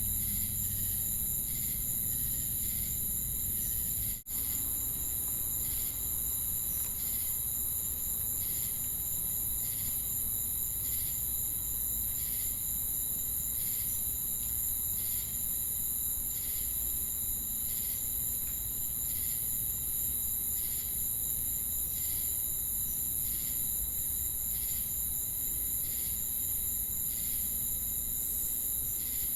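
Crickets and cicadas chirping together: a steady high-pitched insect drone with a pulsing chirp repeating a little more than once a second. A brief dropout comes about four seconds in.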